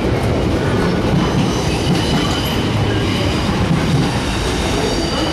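Container freight train's wagons rolling past close by: a steady, loud rumble of steel wheels on rail with a faint high-pitched wheel squeal above it.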